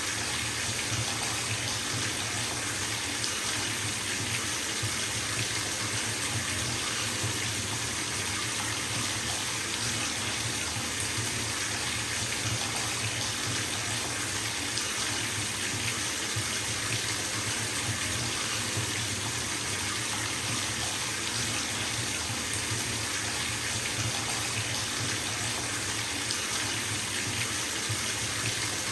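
Bathtub tap running and filling the tub, a steady hiss of water pouring into water with an even low rumble underneath.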